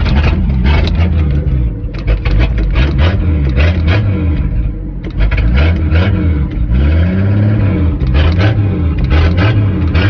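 Small cord-started (pull-start) engine of an old truck running and revving up and down over and over, its pitch rising and falling every second or so, with clattering and rattling on top.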